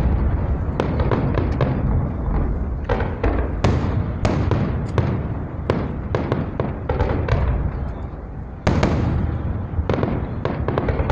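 Fireworks display: shells bursting in quick, overlapping succession over a constant low rumble, with a brief lull just before a loud burst near the end.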